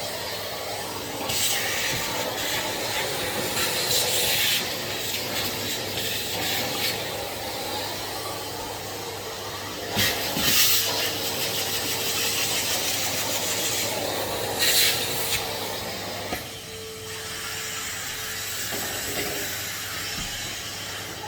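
Henry HVR200 620 W canister vacuum cleaner running with a steady motor hum. Several times, surges of hissing suction and rubbing rise over the hum as the nozzle is worked over surfaces.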